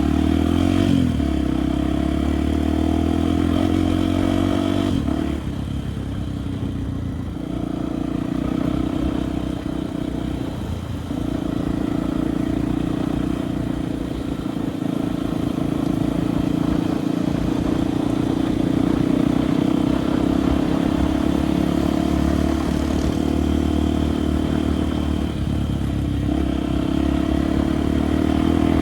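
Enduro motorcycle engine running while under way on a dirt road, its note easing about five seconds in and shifting briefly again around eleven seconds, with light clatter over the rough surface.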